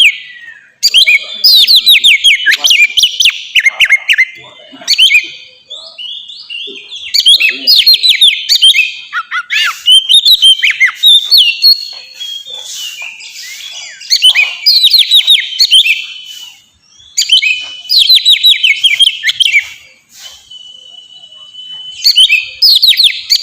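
Oriental magpie-robin (kacer) singing in full 'ngeplong' style: loud, varied bursts of rapid chattering and whistled phrases with short pauses between them, and one long steady whistle note near the end.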